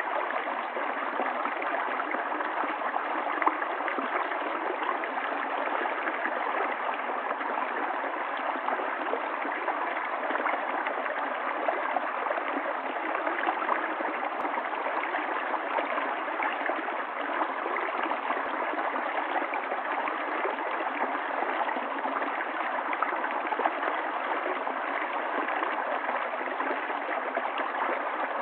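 Small stream of running water, flowing and gurgling steadily.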